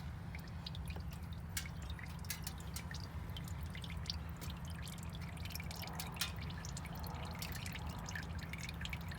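Used engine oil draining from a 2003 Ford F-150 4.2L V6's oil pan into a catch pan, heard as an irregular patter of drips and splashes.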